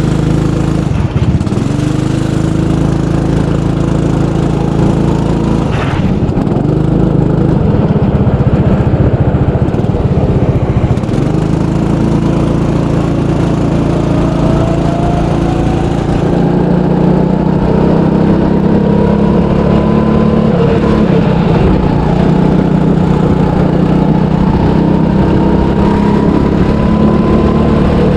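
300cc go-kart engine running loud through a lap, mostly at steady revs. The pitch drops and picks up again about a second in, around six seconds in and around eleven seconds in, and a thin rising whine sits above it from about fourteen seconds in.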